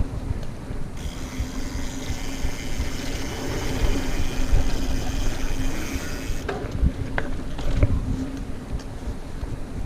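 Mountain bike rolling fast along a dirt trail: a steady rumble of tyres and wind on the microphone with a constant hum, a high hiss for several seconds in the middle, and a few knocks and rattles near the end as the bike goes over bumps.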